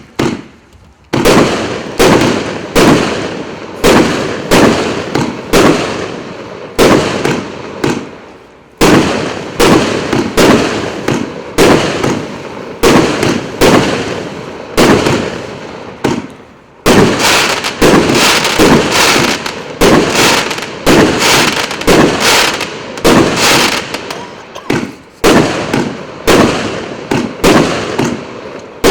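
A 49-shot consumer firework cake with 1.2-inch tubes firing shot after shot: sharp bangs in quick succession, about one to two a second, each with a short fading tail, with a brief pause twice.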